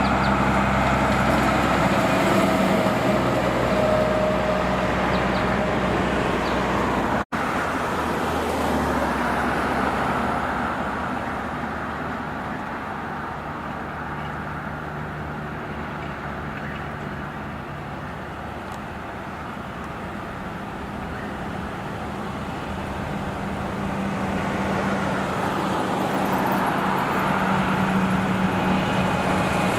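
Heavy trucks' diesel engines and tyres on the road: one truck's engine runs loud for the first several seconds, the sound cuts briefly, then road noise fades and another truck's engine builds up near the end.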